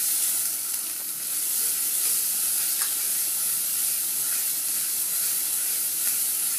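Onion paste with ginger-garlic paste and turmeric frying in hot oil in a non-stick kadai, a steady sizzle, while a spatula stirs it around the pan.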